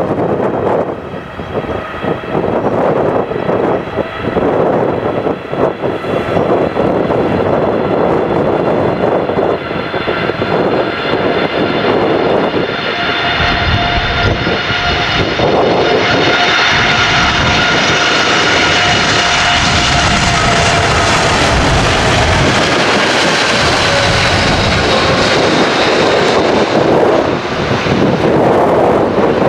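Jet airliner engines running loud, with a whine of several tones that slowly falls in pitch as the aircraft passes. Gusty wind rumbles on the microphone in the first few seconds.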